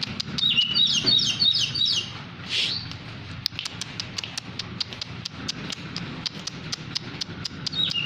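Oriental magpie-robin (kacer poci) calling: a quick run of high chirping notes, then a long string of sharp ticking calls at about four or five a second.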